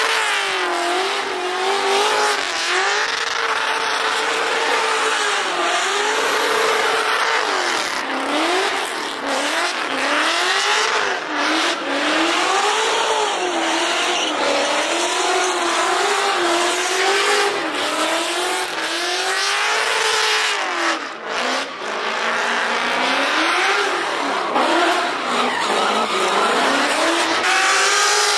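Car engine revving up and down over and over, with tires squealing, as a car is driven hard in a performance demonstration.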